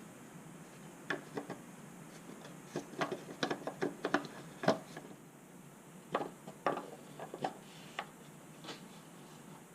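About a dozen irregular light clicks and knocks, clustered in quick groups and loudest near the middle: hand work in an engine bay during an engine-oil top-up.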